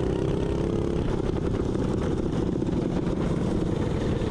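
Mini bike engine running steadily while riding, its even tone fading into a rougher rumble about a second in.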